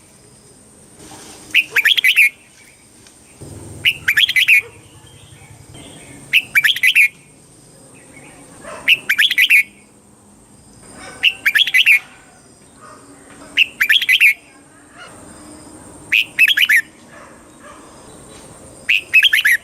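Red-whiskered bulbul singing: short, loud phrases of several quick notes, repeated about every two and a half seconds.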